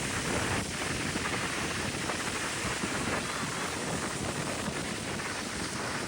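Steady noisy rush of wind on the microphone, even throughout with no distinct events.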